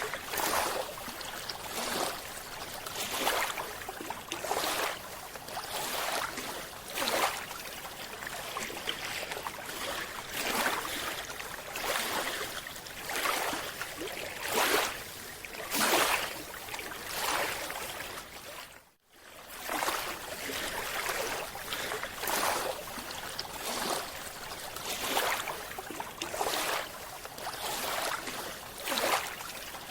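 Underwater water noise with a rushing surge about every second and a half. It drops out abruptly for a moment about 19 seconds in.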